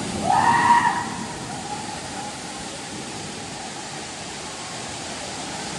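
Steady rushing noise of water-park water, with a short rising cry, like a distant shout, in the first second.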